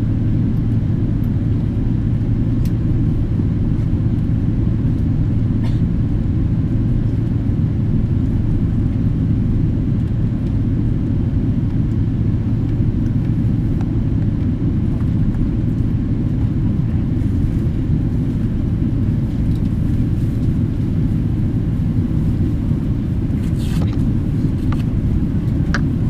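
Steady low rumble of a Boeing 777-300ER's GE90 engines running at low power with the airliner on the ground before takeoff, with a few faint clicks.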